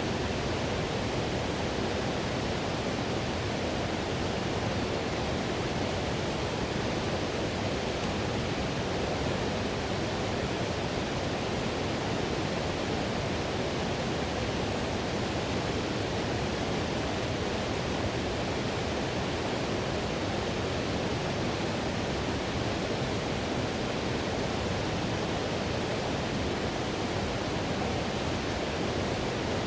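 River whitewater rushing over rocks: a steady, unbroken roar of water.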